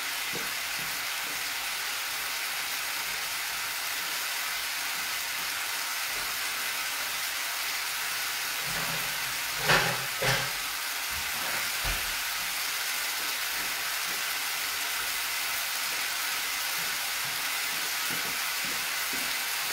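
Turkey-breast involtini sizzling in sauce in a frying pan over a gas flame: a steady frying hiss, with two short knocks about halfway through and a fainter one shortly after.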